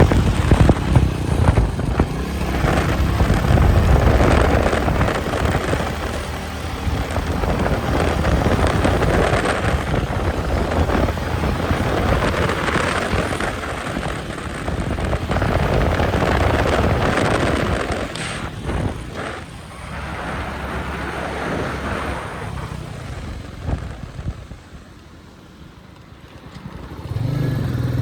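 Royal Enfield Meteor 350's single-cylinder engine and exhaust running under way at highway speed, mixed with a steady rushing noise. The sound rises and falls with the throttle, drops away sharply a little over 23 s in, and picks up again shortly before the end.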